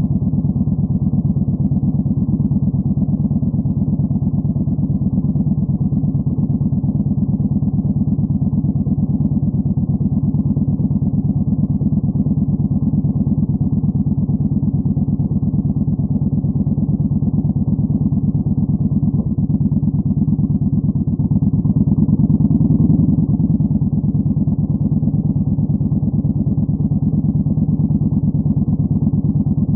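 Yamaha Bolt 950's air-cooled V-twin running through a Vance & Hines Twin Slash staggered exhaust, a steady, even beat with no revving, swelling briefly a little after twenty seconds.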